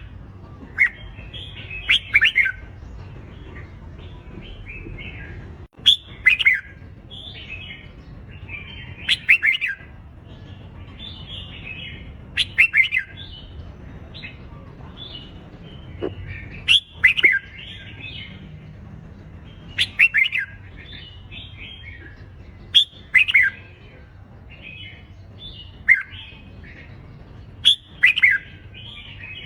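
Red-whiskered bulbuls singing their competitive fighting song: short, loud, chirping phrases that come every two to three seconds. A faint low steady rumble lies underneath.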